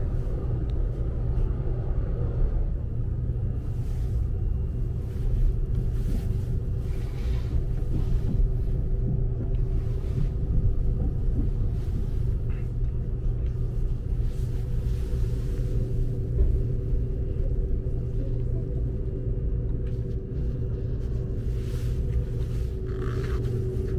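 Cabin of a Seibu Laview limited express electric train on the move: a steady low rumble of wheels and running gear, with a constant hum.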